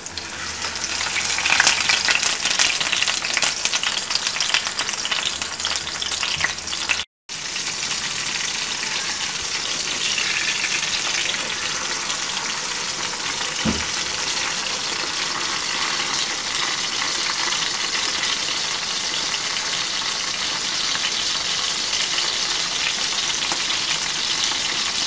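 Slabs of fish cake (chả cá) frying in hot oil in a pan: a steady loud sizzle, with sharp crackling pops thickest over the first several seconds. The sound cuts out for a moment about seven seconds in, then the sizzle carries on evenly.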